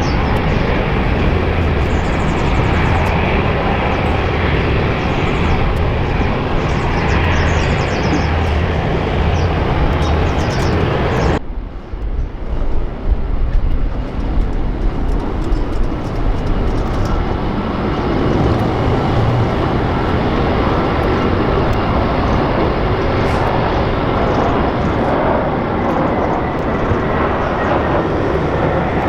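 Jet airliner engine noise, steady and loud, that changes abruptly about eleven seconds in to a deeper rumble with less hiss.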